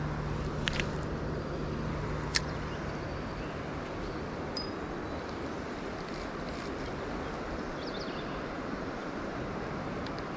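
Steady rush of river water, with a couple of short sharp clicks, one under a second in and one a little over two seconds in.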